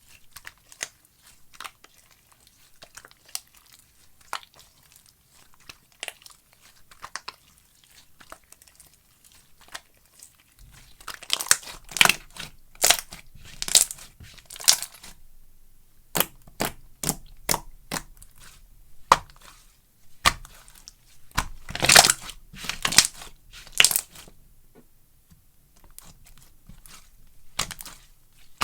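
Slime being squeezed, pressed and stretched by hand, making sticky crackles and pops. The crackles are faint and scattered for about the first ten seconds, then come louder in dense clusters with short pauses between.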